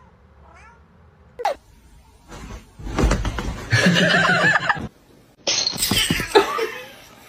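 Domestic cat yowling and caterwauling in two loud, rough stretches, the first starting about two seconds in and the second just after the middle.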